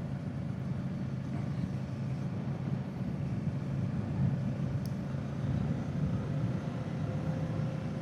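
Kawasaki Z650's parallel-twin engine running steadily as the motorcycle is ridden, a low even hum.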